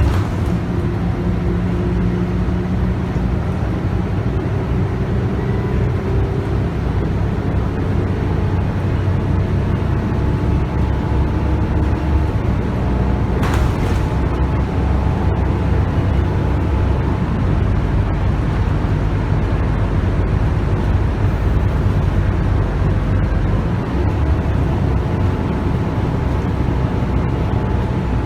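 Scania K280UB bus under way, heard from inside: its 9.3-litre five-cylinder diesel running through a ZF Ecomat automatic gearbox over steady road and tyre noise. The engine note shifts in pitch in the first several seconds, and a single short knock comes about halfway through.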